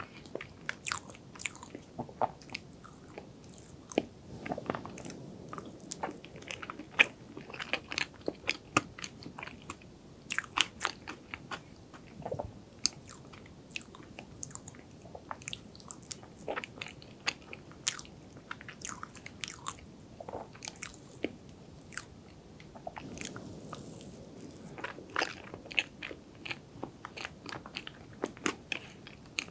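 Close-miked chewing of dense chocolate cream cheese cake: wet mouth sounds with many sharp, irregular clicks.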